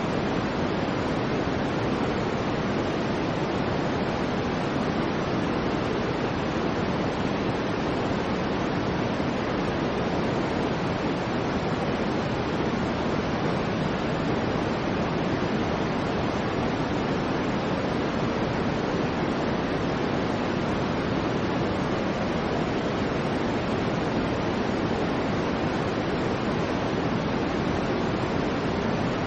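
Soft white noise: an even, unchanging hiss, fuller in the low and middle range than in the highs.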